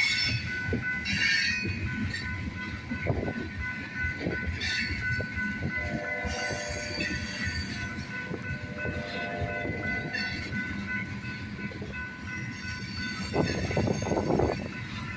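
Train cars rolling past close by, their wheels knocking irregularly over the rails, with a steady high-pitched squeal.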